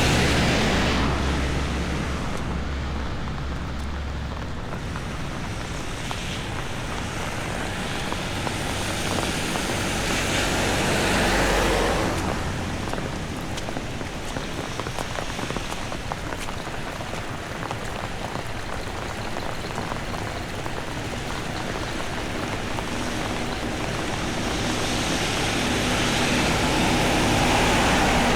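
Heavy rain falling as a steady hiss, swelling louder for a few seconds about eleven seconds in and again near the end.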